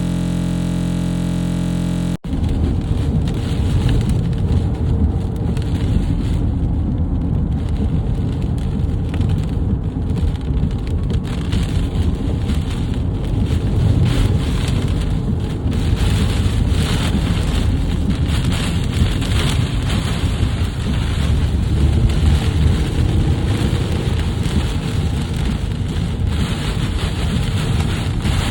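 Strong wind and rain in a thunderstorm, buffeting the microphone with a loud, steady low-heavy noise. It opens with a steady held tone that cuts off abruptly about two seconds in.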